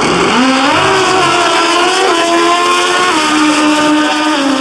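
Two drag racing motorcycles making an eighth-mile pass at full throttle. The engine note climbs and then changes pitch in sudden steps a few times along the run.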